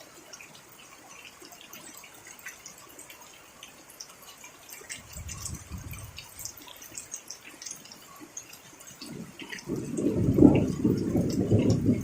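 Rain dripping in scattered small ticks, with a short low rumble of thunder about five seconds in and a louder rumble of thunder building from about nine seconds and peaking near the end.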